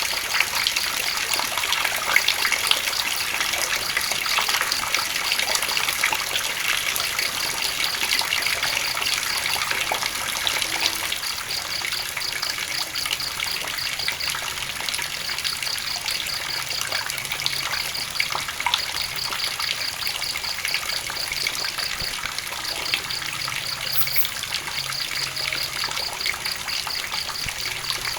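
Steady rain falling and running off in a continuous rushing hiss. A high, rapid pulsed chirping comes in short repeated runs above it.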